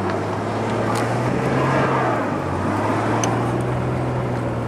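Vehicle engine running under load while the stuck vehicle tries to drive out of deep snow, with a rushing hiss over it. The engine's pitch drops slightly about two seconds in.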